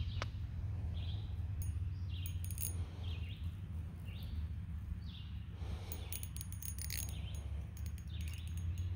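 A bird calling over and over in short chirps, about one to two a second, with bursts of faint high ticking and a steady low rumble underneath.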